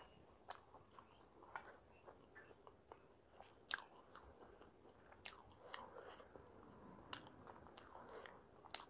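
Faint close-miked chewing with the mouth closed: soft, scattered wet mouth clicks, with a few sharper smacks.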